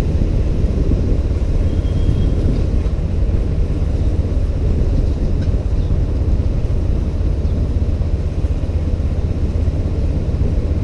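Steady low rumble of a ride on a motorbike: wind buffeting the microphone mixed with engine and road noise.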